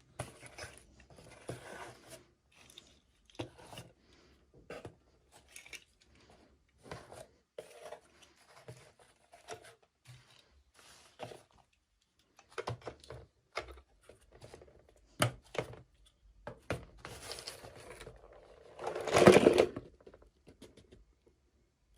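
Toy packaging being handled and opened by hand: scattered small clicks, taps and plastic rustles, with a louder burst of tearing and crinkling about three-quarters of the way through.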